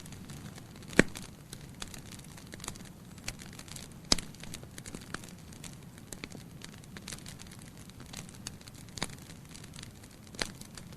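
Wood fire crackling in a fireplace: irregular sharp pops and snaps over a low steady hiss, with two louder pops about a second and four seconds in.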